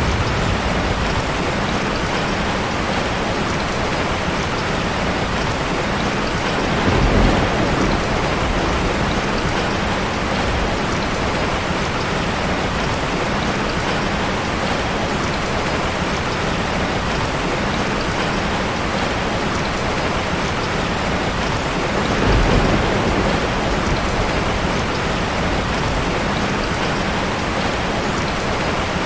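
Heavy rain falling steadily in a dense, even hiss, with two brief low rumbles, one about a quarter of the way in and one about three-quarters through.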